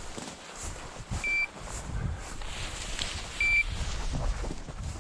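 Electronic dog collar beeping: two short, high-pitched beeps about two seconds apart.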